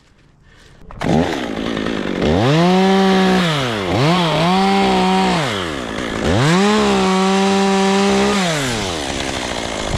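Two-stroke chainsaw running, its engine coming in about a second in, then opened to full throttle three times, each time rising to a steady high whine, holding for a second or two and dropping back.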